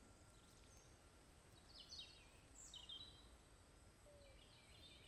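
Near silence: faint background hiss with small bird chirps, two quick runs of falling chirps about two and three seconds in, and more faint chirping near the end.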